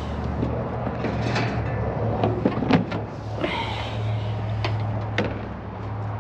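Steady low mechanical hum with several sharp knocks and clacks, like a door or cover being handled, the loudest about two and a half seconds in.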